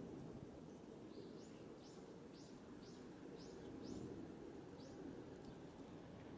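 A bird calling: a run of about eight short, high chirps, roughly two a second, over faint steady outdoor background noise.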